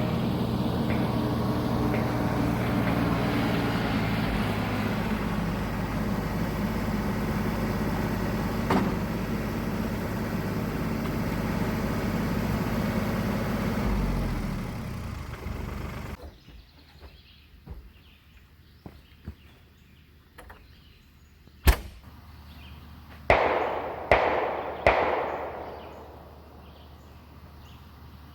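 RK37 tractor engine running steadily, then fading out; after a quiet stretch, a sharp bang and then three more in quick succession, each with a trailing echo.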